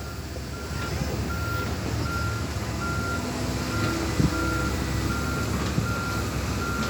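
Excavator's travel alarm beeping at an even pace, about one short beep every three-quarters of a second, over the low running of its diesel engine.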